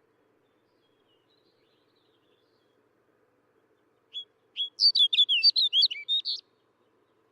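Snow bunting singing: about four seconds in, two separate high notes lead into one short, fast warbling phrase of about two seconds.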